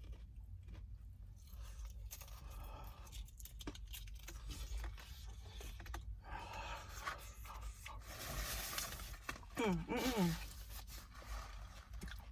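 Paper food wrapper and bag rustling and crumpling, with scattered small clicks and some chewing; the rustling is loudest for a couple of seconds near the end.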